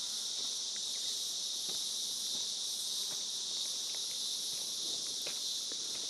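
Chorus of insects making a steady, high-pitched, unbroken buzz.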